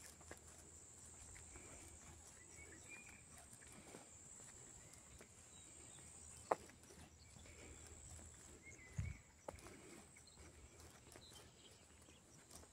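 Faint rural outdoor ambience: a steady high insect drone with a few soft bird chirps. A sharp click comes about halfway through, and a low thump about two-thirds of the way in.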